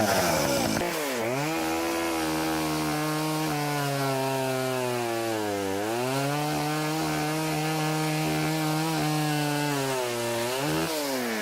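Chainsaw cutting wood: the engine drops from high revs as the chain bites about a second in, then runs at a steady, lower pitch under load, dips briefly about halfway and recovers, and falls away near the end as the throttle comes off.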